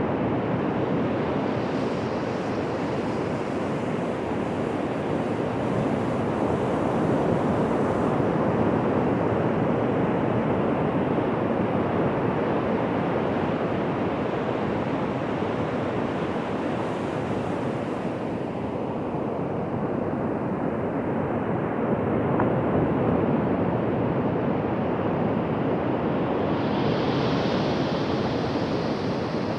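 Ocean surf on a beach: a continuous rush of waves breaking and washing in, swelling and easing slowly.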